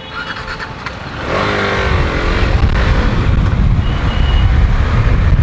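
Motorcycle running on the road with traffic noise around it. A heavy rumble of wind and road noise swells about a second in as the bike gathers speed, then holds steady.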